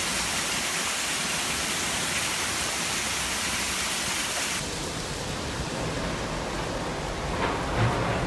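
Heavy thunderstorm rain falling steadily, an even hiss. Its character changes abruptly about halfway through.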